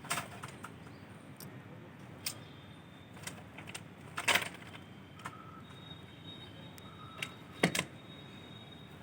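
Scattered, irregular knocks and taps of construction work, the loudest a short cluster about four seconds in and another near the end.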